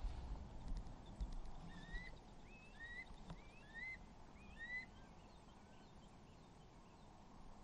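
A bird calling: a string of short whistled notes, each rising and then dipping slightly, thickest from about two to five seconds in and then fading. Under it are a low rumble and a few thumps in the first couple of seconds.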